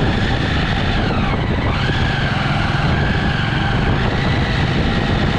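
Jawa motorcycle engine running under way, heard from a bike-mounted camera. Its pitch drops about a second in and climbs back within a second.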